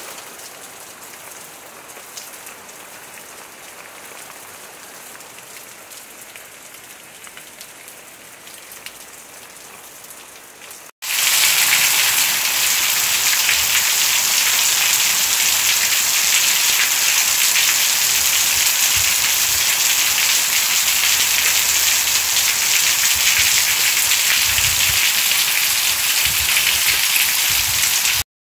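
Steady rain falling on banana plants and trees, then, after a sudden cut about 11 seconds in, much louder rain pouring onto a concrete yard and brick walls, a dense even hiss.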